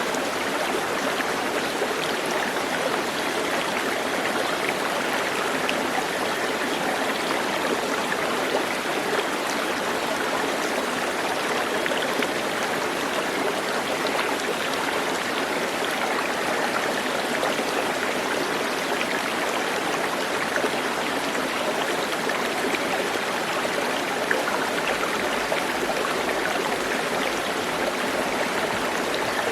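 Flowing stream, a steady even rush of running water.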